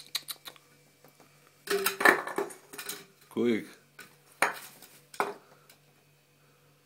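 A small toy clattering and knocking on a hard surface in several bursts, with single sharp clicks near the start and a longer clatter about two seconds in.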